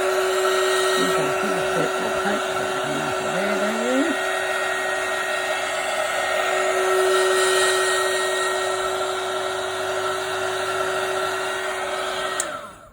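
Handheld electric hot-air blower running steadily with a held hum and rush of air, used to pop bubbles in wet acrylic pour paint. It is switched off near the end, and its motor winds down with a falling pitch.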